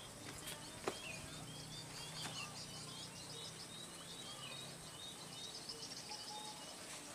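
Birds chirping repeatedly in short high calls over low outdoor background noise, with a faint low hum that fades out about five seconds in. A single sharp click about a second in.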